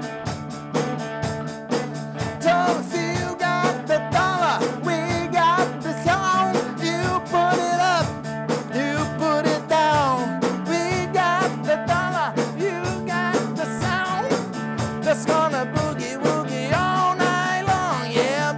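Rock band playing an instrumental break between sung verses: electric guitar over bass and drums with a steady beat.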